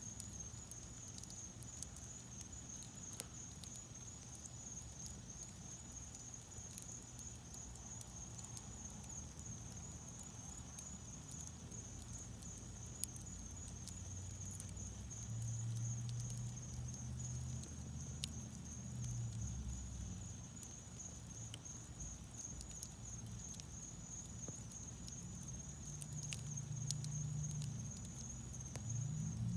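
Wood fire burning in a fireplace: sharp crackles and pops scattered irregularly over a low rumble of flame that grows louder from about halfway through. A thin, steady high whine sits underneath.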